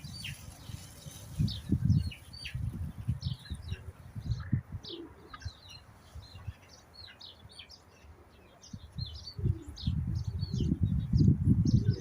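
Small birds chirping repeatedly, short high chirps coming every fraction of a second, with irregular low thumps and rumbles underneath, heaviest near the start and again toward the end.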